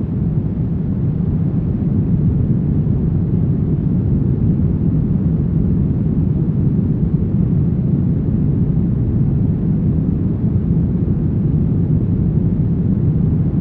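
Brown noise: a steady, deep rumbling hiss with most of its weight low down and little treble, unchanging throughout.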